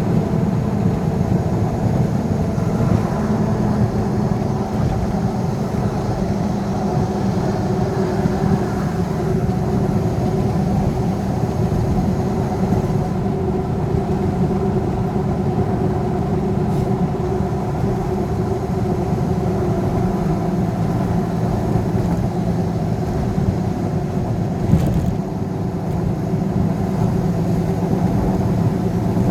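Steady engine and road noise of a vehicle driving on a highway, an unbroken drone with a short click about 25 seconds in.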